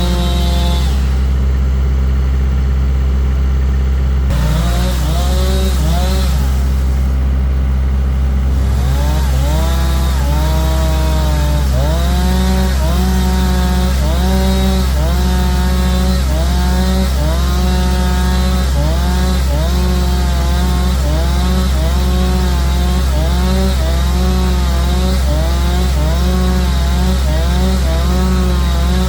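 Engine running steadily under load. From about four seconds in, its note rises and falls roughly once a second, over and over.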